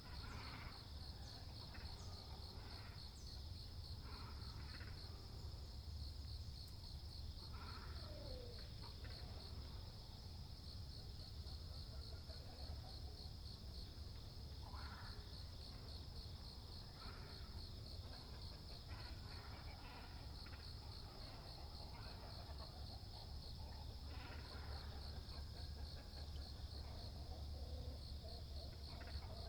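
A steady, rapidly pulsing high insect trill runs throughout, while water birds, great cormorants and herons, give scattered short croaking calls every few seconds, over a low steady rumble.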